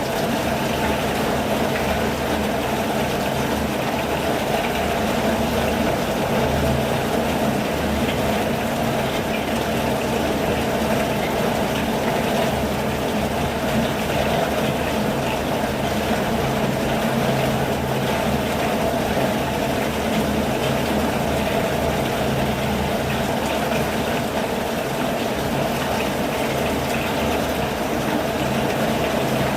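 Steady rain, an even unbroken hiss of falling and running water.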